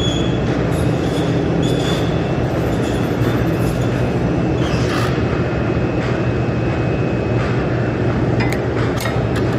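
Steady loud machinery rumble with a constant low hum and a faint high whine, and a few short metallic clicks near the end.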